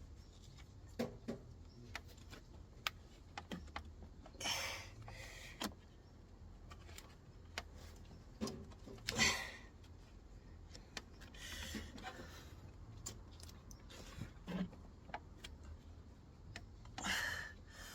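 Hand work on car parts: scattered clicks and knocks with a few short rattling, scraping spells as tools and parts are handled and pushed into place, the engine not running.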